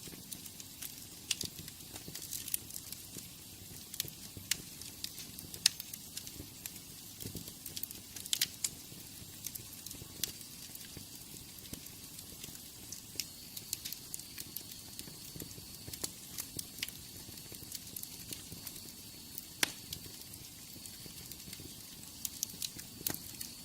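Wood fire in a fireplace crackling: irregular sharp pops and snaps over a soft steady hiss of flame, with a faint thin high whistle joining from about halfway through.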